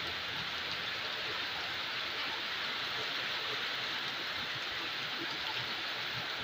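Heavy rain falling steadily on a wet paved street, an even, unbroken hiss.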